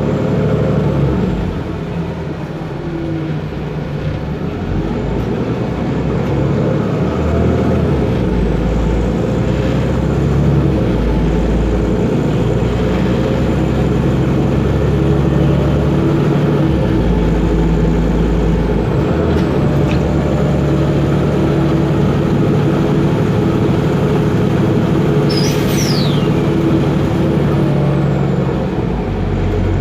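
Otokar Kent LF city bus's Ford Ecotorq diesel engine running steadily with its Voith DIWA automatic gearbox, the low engine note shifting several times. A brief high squeak sounds near the end.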